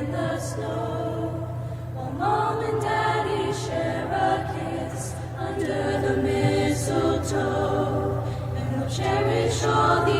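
School choir singing in harmony, several voice parts holding and moving between sustained notes.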